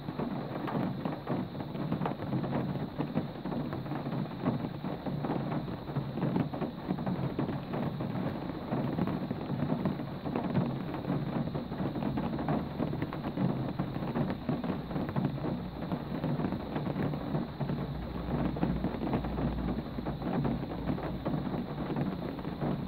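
Steady rain falling, a dense even patter. A low rumble swells briefly about eighteen seconds in.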